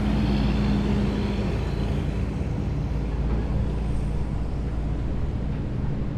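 Heavy military vehicles driving past in a column with a steady deep engine rumble. A strong low engine tone and a faint high whine fade after the first two seconds.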